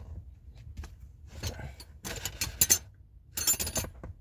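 Metal hand tools clinking and jangling, wrenches knocking against metal in three short bursts of rattling clicks.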